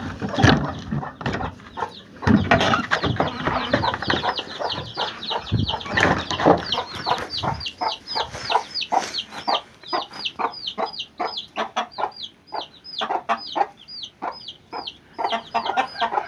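Chickens clucking and shuffling about, then from about six seconds in a fast, even run of high, falling peeps, about three or four a second.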